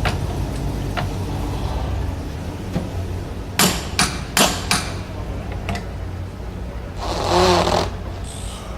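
Shelby Daytona Cobra Coupe's engine idling with a steady low rumble. Four sharp knocks come in quick succession a few seconds in, and a brief louder rushing burst comes near the end.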